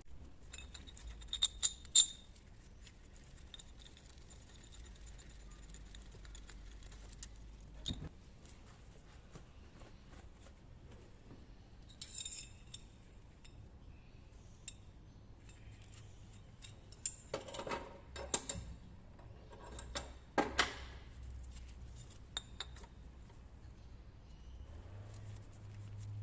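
Scattered metallic clinks and knocks of tools and timing-chain parts being handled and fitted on a Toyota 1GD engine, loudest a couple of seconds in and again in a cluster past the halfway point.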